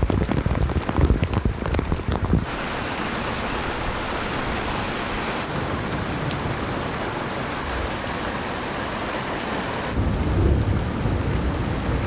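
Torrential rain pouring down in an even, steady hiss, with low, gusty rumbling for the first couple of seconds and again near the end.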